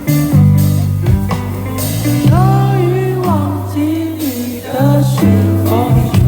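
Live indie rock band music: a singer's held, gliding vocal line over steady bass notes and guitar.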